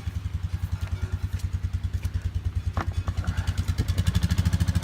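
Small engine idling with a steady, rapid putter, getting louder about four seconds in.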